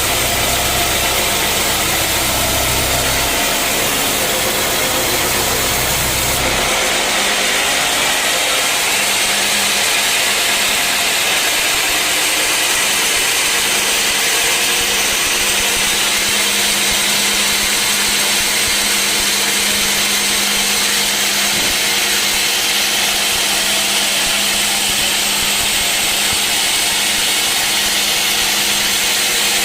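Sawmill machinery running steadily. A low rumble drops away about six seconds in, leaving a steady hum and hiss.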